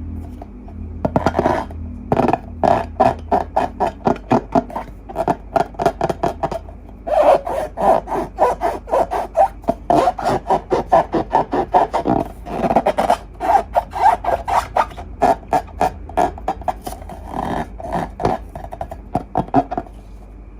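Slime being kneaded and squished by hand: a rapid run of short sticky clicks and squelches, about two or three a second.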